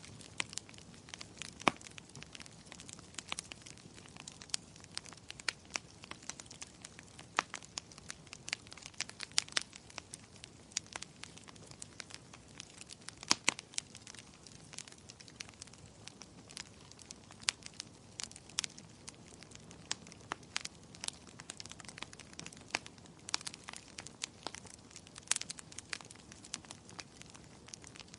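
Wood fire crackling: a soft steady hiss with frequent sharp, irregular pops and snaps from the burning logs.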